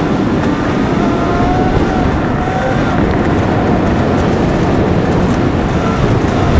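Riding noise from a Sur Ron electric dirt bike: strong wind buffeting the microphone makes a steady, loud rushing, with the electric motor's faint whine drifting up and down in pitch with speed.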